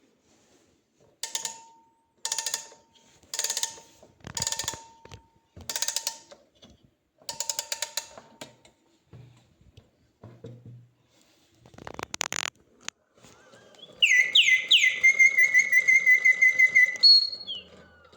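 Griesbaum mechanical singing bird automaton: a run of short breathy puffs about once a second, then the loudest part, a whistled warbling birdsong with quick trills and sliding notes lasting about three seconds near the end.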